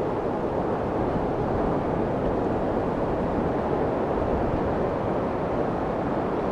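Steady white noise for soothing a baby, weighted toward the low end: a deep, even rush with little high hiss, unchanging throughout.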